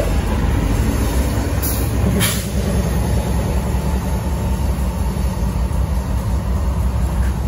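Freight train rolling past: a steady, heavy low rumble of wheels on rail, with a couple of brief clicks about two seconds in.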